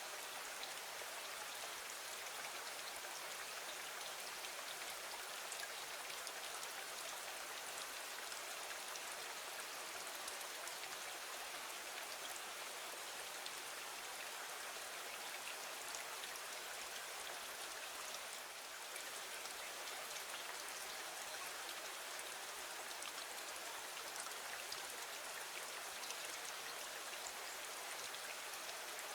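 Steady rain falling against a window, an even hiss with fine scattered drop ticks.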